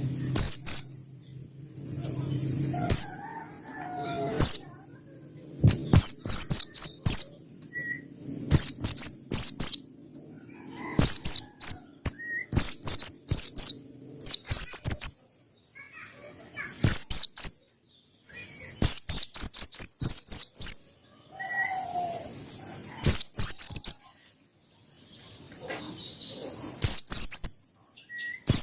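Pleci (Zosterops white-eye) singing in the long 'ngalas' manner prized by bird keepers. It gives repeated short bursts of rapid, high twittering notes, each burst about a second long, one every second or two.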